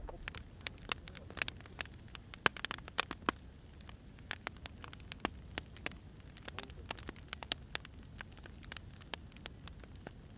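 Wood fire crackling: irregular sharp pops and snaps, some loud and many faint, over a soft steady hiss.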